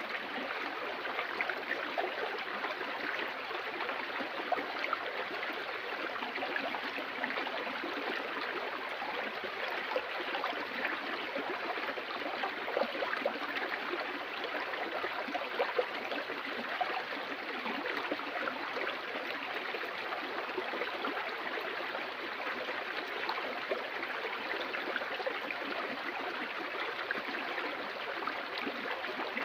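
Stream water flowing and babbling steadily, with small splashes.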